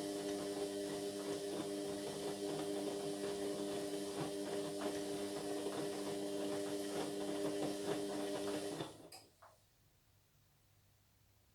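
Indesit MyTime washing machine's drain pump humming steadily while water gurgles through it, cutting off suddenly about nine seconds in, followed by a single click.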